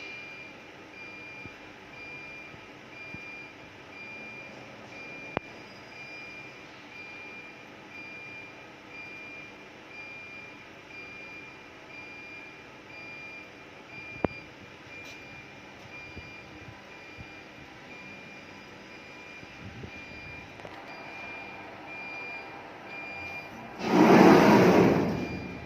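An electronic warning beeper sounds a steady run of evenly spaced, high-pitched beeps over a low machine hum, with two sharp clicks along the way. Near the end the beeping stops and a loud rushing noise cuts in for about a second and a half.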